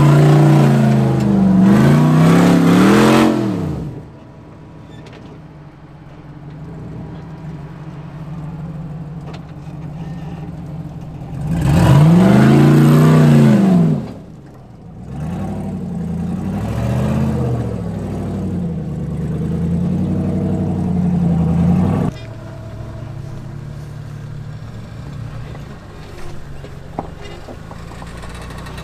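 Jeep engine revving in repeated bursts while crawling over rock, the pitch climbing and dropping with each blip of throttle. The strongest rev comes about twelve seconds in; after about twenty-two seconds the engine settles to a steadier idle.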